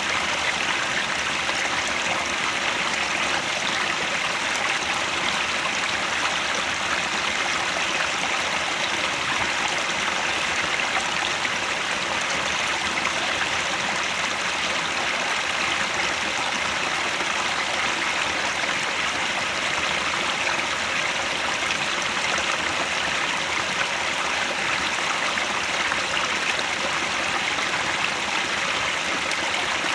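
A mountain headwater stream running over rocks, a steady rushing and splashing that stays even throughout.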